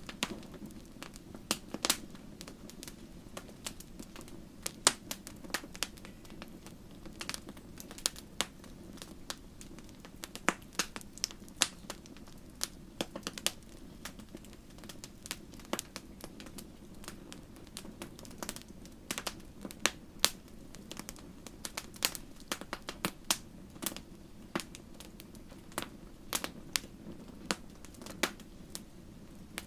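Wood fire in a fireplace crackling: irregular sharp pops and snaps, several a second, some much louder than the rest, over a low steady rumble.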